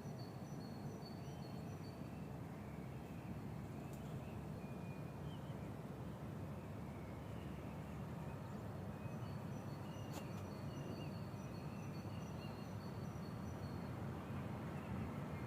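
Birds chirping in quick repeated phrases, twice, over a steady low background rumble, with a single sharp click about ten seconds in.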